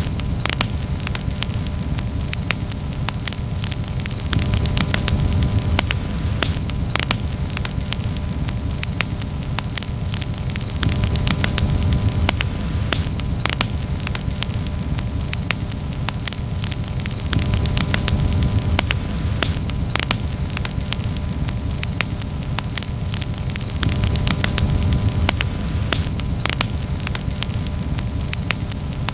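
Wood campfire burning, with frequent sharp crackles and pops over a low steady rush of flame that swells and eases every few seconds.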